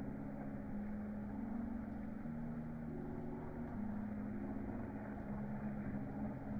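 The small electric motor and drivetrain of a Panda Hobby X2T 1/18 RC crawler whining, its pitch stepping up and down as the throttle changes, over the steady noise of rushing river water.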